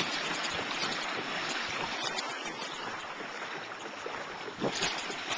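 Water rushing and splashing along the hull of a Hobie pedal kayak being pedalled fast and throwing a wake. A few light knocks near the end.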